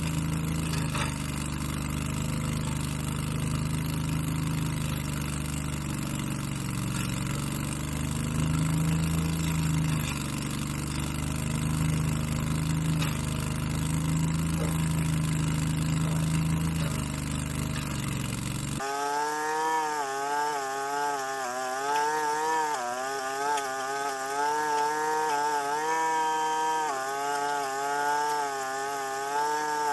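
Engines of outdoor power equipment running: a low, steady engine for most of the first two-thirds, then an abrupt switch to a higher-pitched engine whose speed wavers up and down.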